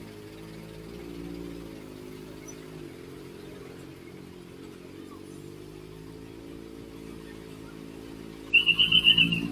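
Kawasaki ZX-4RR's inline-four engine through an SC Project exhaust, running at low, fairly steady revs with slight rises and falls. Near the end a loud, high, trilling tone sounds for about a second.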